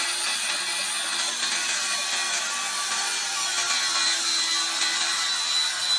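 Angle grinder grinding the steel drum of a road roller: a steady, high-pitched rasping hiss with a faint whine.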